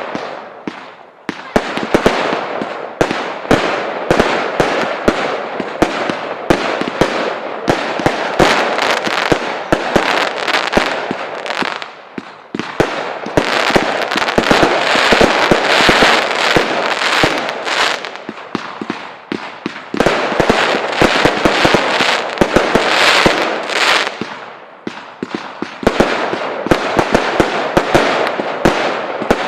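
Fireworks display: a dense, continuous run of bangs, cracks and crackling, with brief lulls before it builds again.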